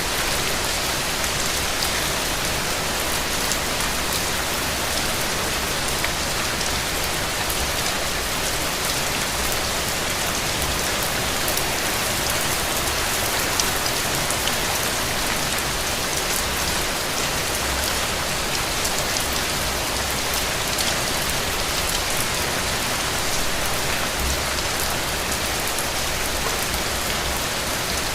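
Steady rain falling, an even hiss with scattered sharper drop ticks and a faint low rumble that comes and goes underneath.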